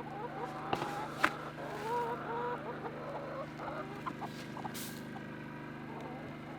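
A flock of chickens clucking continuously in many short, overlapping calls, with a few sharp clicks about a second in and again near the end.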